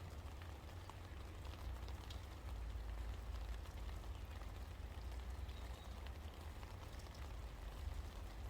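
Steady rainfall with many small drops ticking close by, over a constant low rumble.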